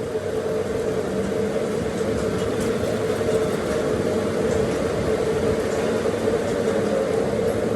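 Steady running of a workshop machine: a constant mechanical hum with a noisy hiss over it and faint ticks.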